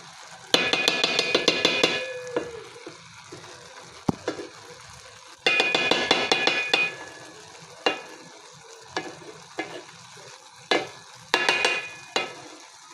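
A spoon stirring and scraping cooked rice in a metal sufuria (cooking pot), in three bouts of quick scraping a few seconds apart, with a few single knocks against the pot between them.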